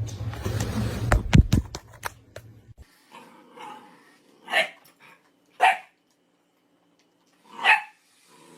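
A dog barks three times, with short single barks a second or two apart. Before them comes a stretch of clattering knocks.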